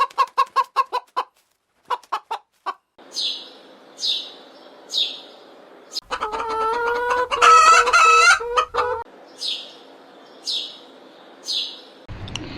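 Chickens: a quick run of clucks at the start, then high falling peeps about every three-quarters of a second, with a rooster crowing for about three seconds in the middle.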